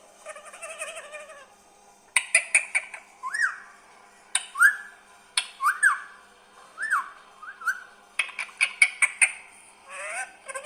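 Indian ringneck parakeet calling: a string of sharp squawks mixed with short upward-sweeping whistled calls, ending in a quick rapid-fire cluster of squawks. A soft warbling chatter comes first.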